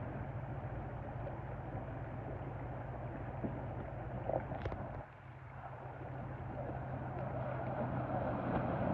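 Four-wheel-drive vehicle's engine running steadily, with a constant low hum under a broad rushing noise; the level drops about five seconds in and then gradually builds again.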